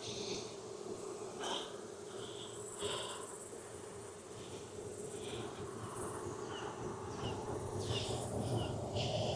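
Honeybee colony buzzing steadily around an opened hive, with short high chirps now and then.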